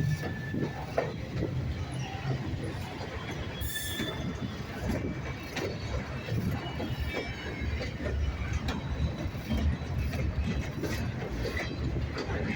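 Freight train rolling past: a steady low rumble of the cars with frequent clanks and clicks of wheels over the rail joints.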